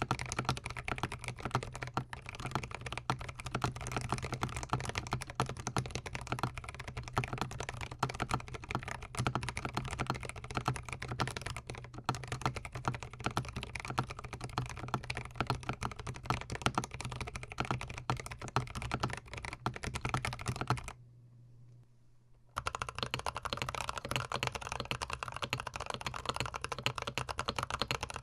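Fast, continuous typing on a GMMK Pro gasket-mount mechanical keyboard with a switch under test, a dense stream of key clacks. About three-quarters of the way through, the typing stops for a second and a half, then resumes.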